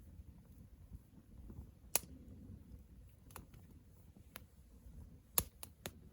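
Wood fire crackling: six sharp, irregular pops from burning wood, the loudest about two seconds in and another near the end, where three come in quick succession, over a faint low rumble.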